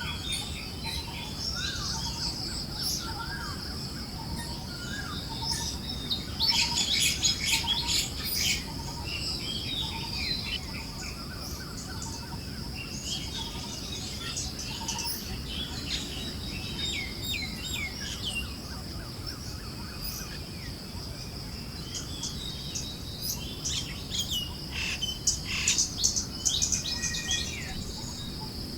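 Forest birds chirping and calling, with dense flurries of chirps about a quarter of the way in and again near the end, over a steady high insect buzz and a soft low wind hiss.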